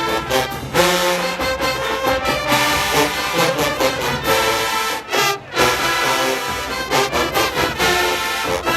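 Show-style HBCU marching band playing loud brass with drums, trombones and trumpets prominent, with a short break about five seconds in before the band comes back in.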